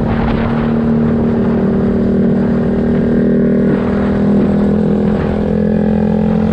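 Motorcycle engine running at a steady speed while riding, its pitch drifting slightly up and down.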